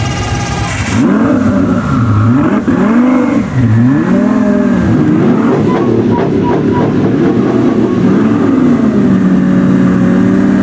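High-performance car engine revved hard in repeated blips, its pitch swinging up and down, then held at steady high revs for the last few seconds. A higher whine cuts off about a second in.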